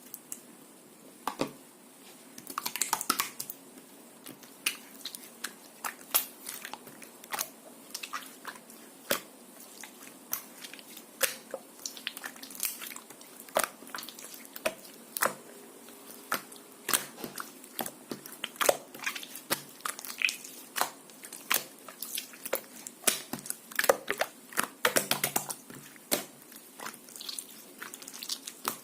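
Soft white slime being squeezed and pressed by hand, making many irregular sharp clicks and wet pops of trapped air, some in quick clusters.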